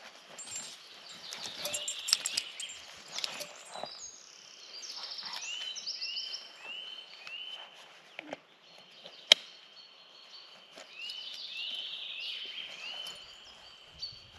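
Wild birds singing in forest, several series of short repeated chirping notes overlapping one another. A single sharp click sounds about nine seconds in.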